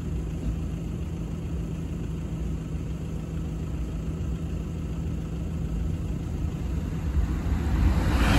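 Low rumble of an approaching LNER Class 801 Azuma train with a steady low hum, growing slowly louder and then swelling near the end as the train reaches the crossing.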